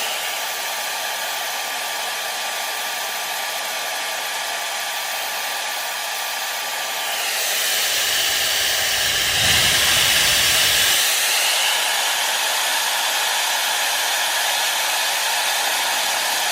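YA-MAN Lift Dryer hair dryer running: a steady rush of air with a faint thin whine. About seven seconds in the whine stops and the sound shifts and grows louder, with a low rumble for a few seconds before it settles steady again.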